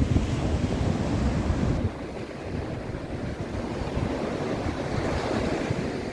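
Surf breaking on the beach, with wind buffeting the microphone; the wind noise is heavier for the first two seconds, then eases.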